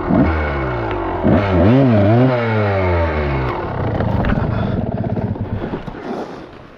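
Dirt bike engine revving in blips, its pitch rising and falling. About three and a half seconds in, the revving drops away to a rougher, low chugging that fades toward the end.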